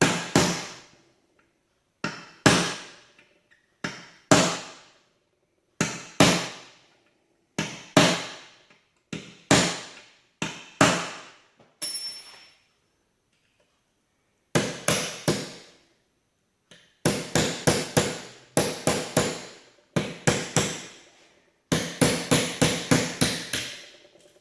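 Hammer striking a baler drive chain to break its links apart. For the first twelve seconds the blows come singly or in pairs every couple of seconds, each ringing briefly. After a short pause, from about halfway, they come in quick runs of several strikes.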